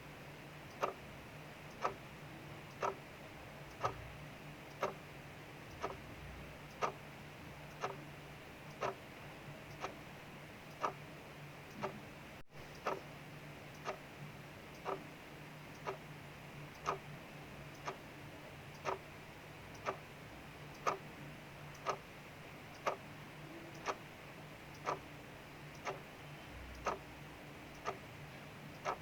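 Clock ticking steadily about once a second over a steady hiss of rain falling outside.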